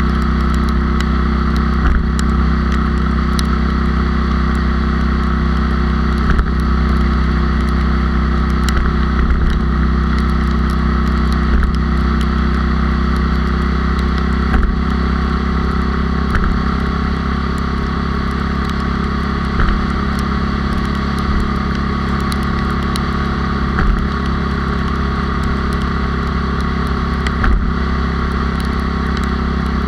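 A Honda Cub's single-cylinder four-stroke engine, bored up to 97cc, running at a steady cruising speed, heard from on the bike over a steady rush of wind and road noise.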